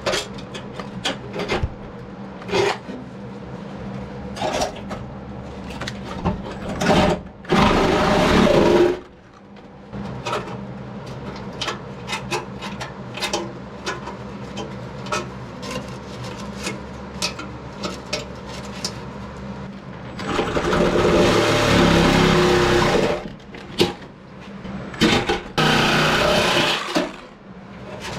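Sheet-steel patch panel being worked by hand and with shop tools: many small taps and clicks, a loud noisy burst about eight seconds in, and a longer loud stretch from about twenty seconds, over a steady low hum.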